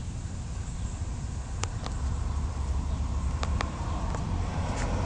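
Steady low outdoor rumble with a light hiss, broken by a few faint, short clicks.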